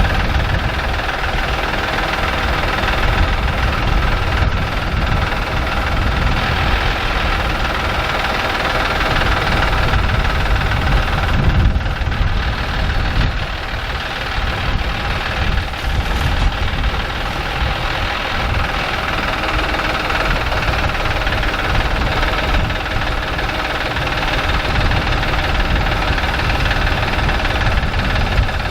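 A vehicle engine running steadily and loud, with no change in speed.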